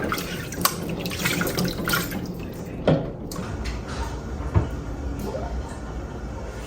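Tap water running and splashing at a sink while eggs are washed, with irregular splashes and small knocks in the first few seconds, then a steadier flow.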